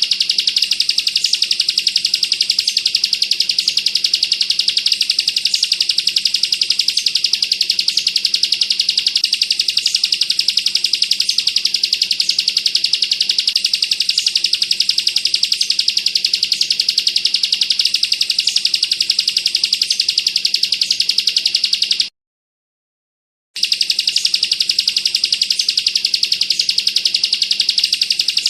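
Bar-winged prinia (ciblek kristal) singing a tight, rapid, unbroken trill (the 'bren rapat' that bird-keepers prize). The sound stops for about a second and a half around two-thirds of the way through, then resumes.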